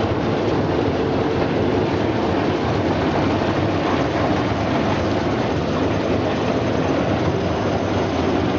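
Industrial brush-roller potato washing machine running: a steady, loud mechanical rumble with a continuous clatter.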